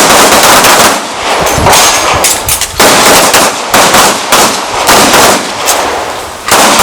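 Handgun gunfire: many pistol shots in quick, uneven succession with short gaps, from a draw, two shots, magazine change, two shots drill.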